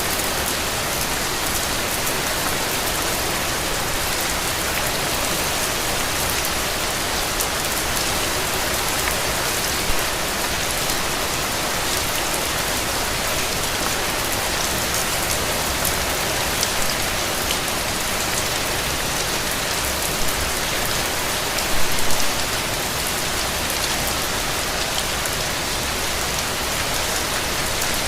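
Steady rain falling, a dense even hiss of drops with fine individual drop hits. A short cluster of louder drips comes about three-quarters of the way through.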